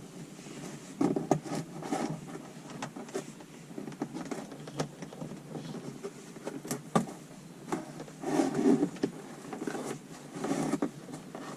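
Rustling, scraping and scattered clicks of a wire being pushed up into a car's headliner by hand, in uneven bursts with short pauses between.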